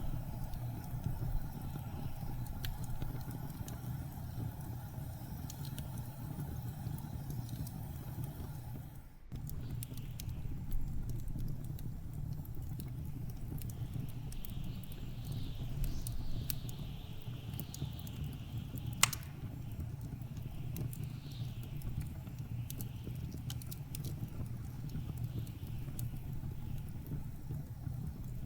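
Wood fire crackling with scattered sharp pops, one louder pop about two-thirds through, over a steady low rumble of blizzard wind.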